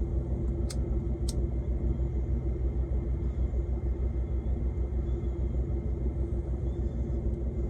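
Steady low rumble of an idling diesel truck engine, heard from inside the cab, with two short clicks about a second in.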